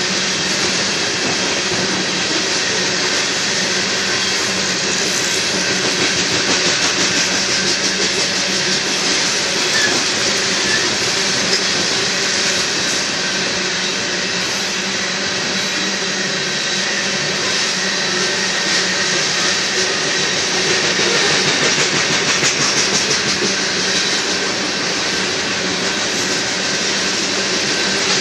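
Steel wheels of a Union Pacific coal train's hopper cars rolling past on the rails: a steady, unbroken rolling rumble and hiss.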